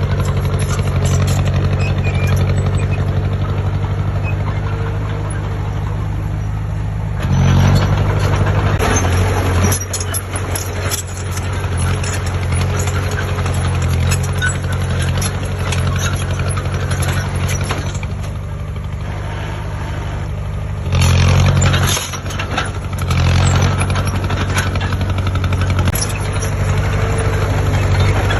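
Heavy construction machine's diesel engine running steadily under load, swelling louder twice for a second or two as it is worked harder.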